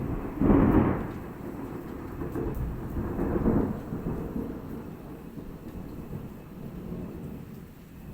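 Thunder: a sudden crack at the start, the loudest peak under a second in, then a long low rumble that swells again about three seconds in and slowly fades.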